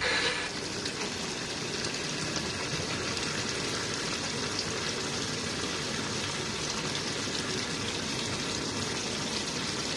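Cold water gushing steadily from a hose into the wash tub of a small RV washing machine, filling it for the first rinse.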